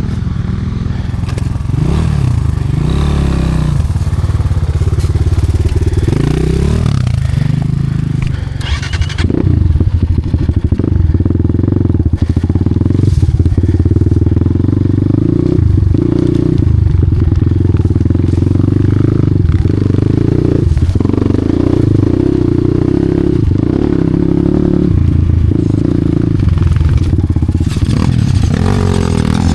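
Enduro dirt-bike engine running under load, the revs rising and falling as the throttle is worked, with a brief drop about eight seconds in.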